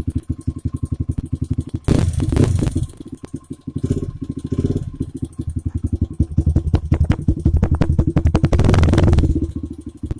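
Honda XR100R's single-cylinder four-stroke engine with a Big Gun aftermarket exhaust, idling in even pulses. It is revved briefly about two seconds in and again near the end.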